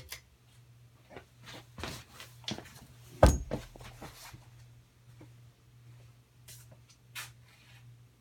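Harbor Breeze Builder's Best ceiling fan running with a low steady motor hum, with a few scattered clicks and one loud knock about three seconds in.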